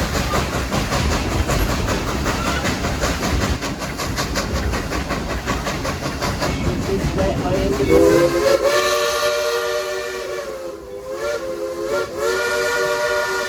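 Steam train rolling along with a steady rumble and clatter; about eight seconds in, the Baldwin 2-8-2 steam locomotive's whistle blows, several notes sounding together, dipping briefly and then sounding again.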